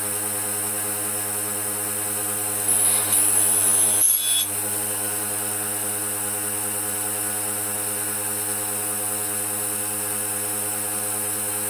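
Electric power tool running steadily, with an even pitched motor hum. A louder, brighter stretch of about a second and a half comes near the three-second mark.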